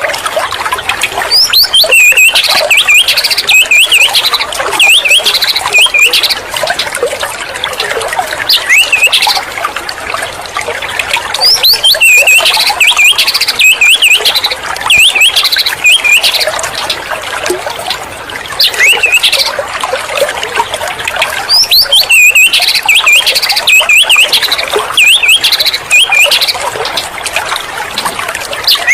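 Loud songbird song: rapid whistled phrases sweeping up and down, coming in bursts of a second or two, again and again. It is a provoking recording (pancingan) played to a white-rumped shama to rouse it into singing.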